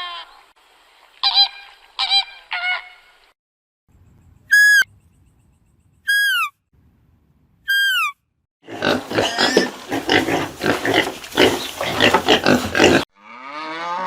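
A run of different animal calls: a few short pitched calls, then three high, clear calls that each fall in pitch at the end, then several seconds of dense, overlapping noisy calling.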